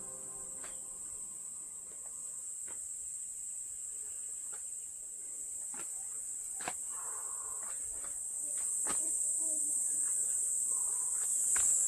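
Steady high-pitched insect drone, growing a little louder about two-thirds of the way in, with scattered light clicks and taps.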